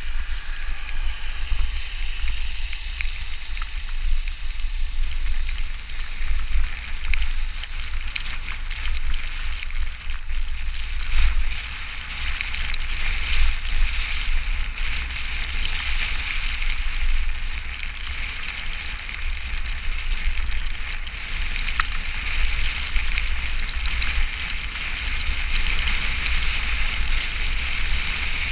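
Steady hiss of rain and wet road, with wind rumbling on the microphone and the loudness rising and falling.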